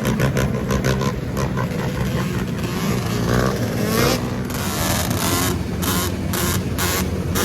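Motorcycle engine running steadily, with other vehicles around.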